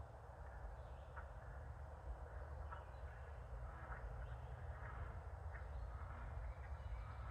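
Outdoor wildlife ambience: a steady low rumble and background hiss, with several short, faint bird calls scattered through.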